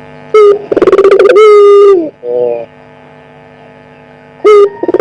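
Puter pelung, a domestic Barbary dove, cooing: a short note, a quick rolling trill, then a long drawn-out coo that drops in pitch as it ends, followed by a short tail note. A second coo begins near the end. A steady electrical hum runs underneath.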